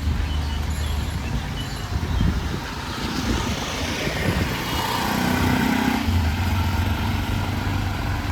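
City street traffic: motor vehicle engines running, with one vehicle passing close by about three to five seconds in.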